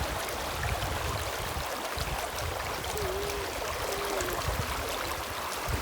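River water flowing steadily over a shallow streambed.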